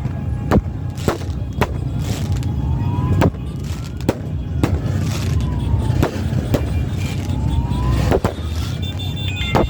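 Fireworks going off in a string of sharp bangs, about one or two a second, over a steady low rumble of motorcycle engines. A rising-and-falling siren-like wail repeats behind them.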